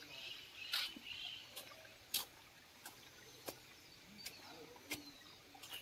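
Faint birds chirping in the background, with a series of sharp ticks about every half second to second.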